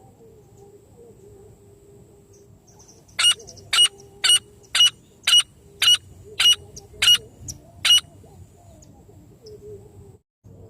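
A francolin (teetar) calling: a run of about nine loud, sharp, evenly spaced notes, roughly two a second, starting about three seconds in and stopping near eight seconds.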